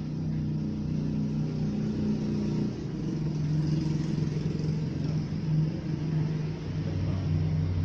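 A motor vehicle's engine running: a steady low hum that shifts in pitch about three seconds in and deepens near the end.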